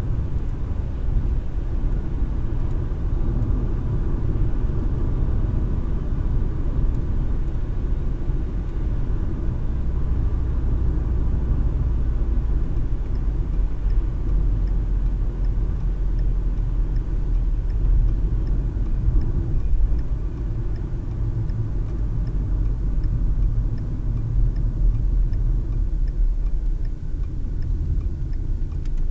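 Car driving on the road, heard from inside the cabin: a steady low rumble of tyres and engine. From about halfway through, a faint, regular ticking comes in at roughly one and a half ticks a second.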